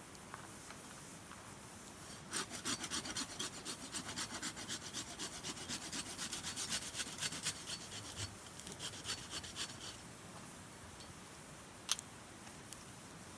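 Rhythmic back-and-forth strokes of a hand tool on wood, about three a second, that run for roughly eight seconds and then stop. A single sharp click follows near the end.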